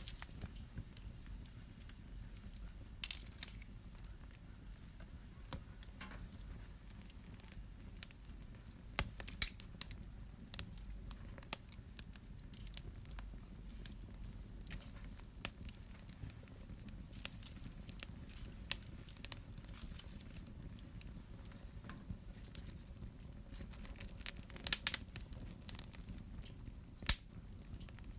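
Wood fire burning in a fireplace: a low steady rumble of flames with irregular crackles and sharp pops, the loudest about three seconds in, around nine seconds in, and a quick cluster near the end.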